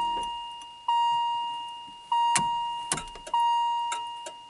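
The 1986 Pontiac Firebird's dashboard warning chime dinging about once every 1.2 seconds, each ding a single clear tone that fades away, with a few short clicks in between.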